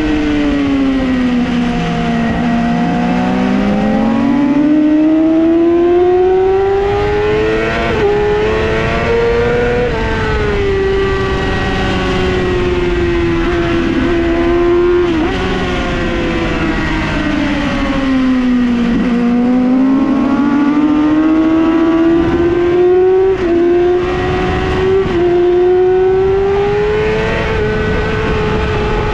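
Yamaha R6 inline-four engine at high revs on a racetrack. The pitch drops hard in the first couple of seconds as it slows, then climbs through gear changes, drops again in the middle, and climbs once more with quick upshifts near the end.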